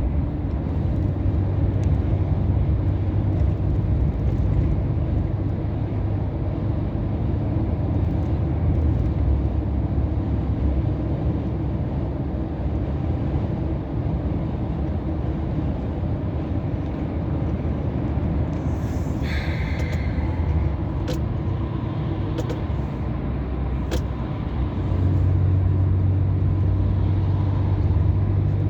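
Scania R500 truck's V8 diesel engine running steadily at cruise, heard from inside the cab as a low drone with road noise, getting louder near the end. A brief hiss comes about two-thirds of the way through, along with a couple of faint clicks.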